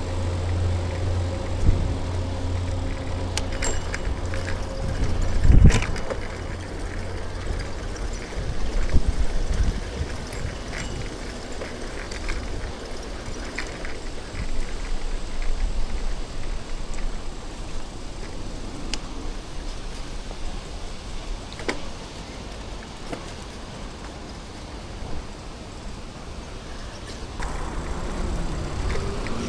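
Riding a bicycle through city streets: steady low rumble of wind and tyres on the road, with passing motor traffic and a few sharp rattles and knocks from the bike. A rising and falling whine comes in near the end.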